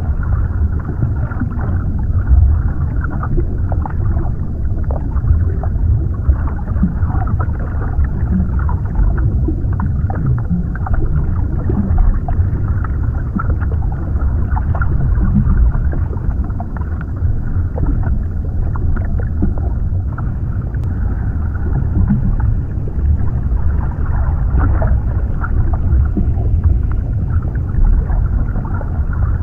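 Underwater ambience: a steady, muffled low rumble of water, with many small scattered bubbles and crackles.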